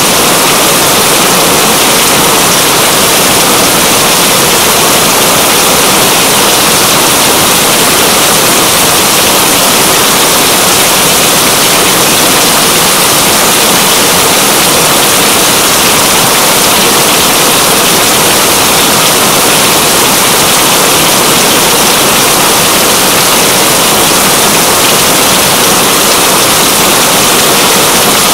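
Steady rain, a loud, dense, even hiss with no breaks.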